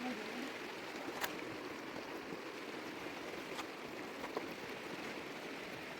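Steady rush of flowing water, as from a stream, with a few short sharp clicks or knocks: one about a second in and two more later on.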